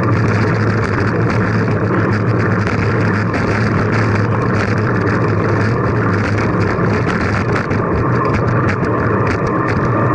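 Steady rush of wind and road noise from riding a bicycle, with a constant low hum.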